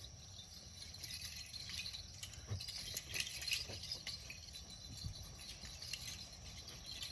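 Insects chirping in a steady high drone, with scattered faint clicks and rustles and a low rumble underneath.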